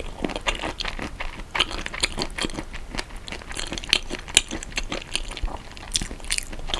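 Close-miked chewing of a mouthful of spicy marinated raw shrimp and rice: a continuous run of short wet smacks and clicks.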